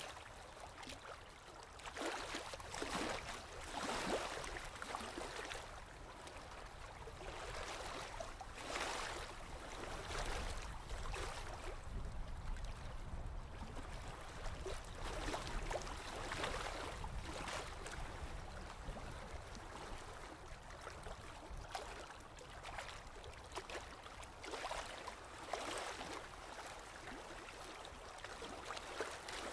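Sea waves washing ashore: a hissing wash that swells and fades every several seconds, over a steady low rumble.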